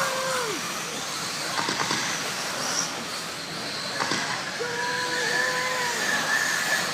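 RC stadium trucks racing on the track: their motors whine in pitches that rise and fall over a steady hiss, with a few short knocks.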